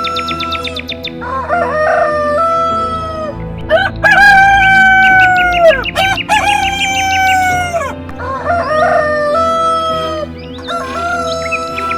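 Roosters crowing over and over, one long crow after another, each held level and then dropping at the end; the loudest and longest crow comes about four seconds in.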